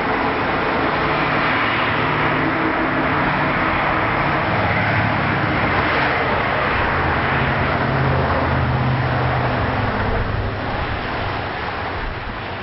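Road vehicle noise: a steady rush with a low engine hum that shifts in pitch now and then, easing off near the end.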